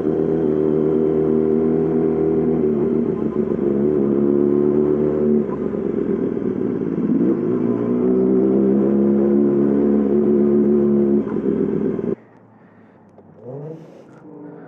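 Yamaha R6 inline-four with a full M4 exhaust running at low, fairly steady revs, dipping and picking back up around the middle. The engine is shut off abruptly about twelve seconds in.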